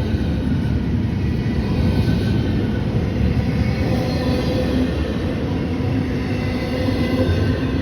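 Train running past, a steady rumble of rolling cars and wheels on the rail with faint steady tones above it.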